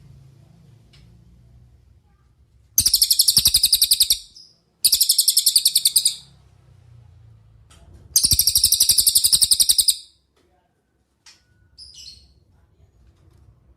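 Cililin songbird trilling three times: each a fast run of high, evenly repeated notes lasting about one and a half seconds, with a few short faint chirps near the end.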